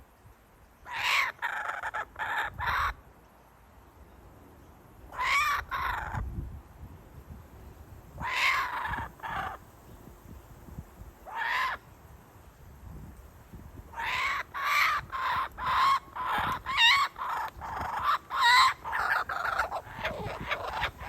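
Kookaburras calling: short, harsh calls spaced a few seconds apart, then a quicker run of calls lasting several seconds about two-thirds of the way in.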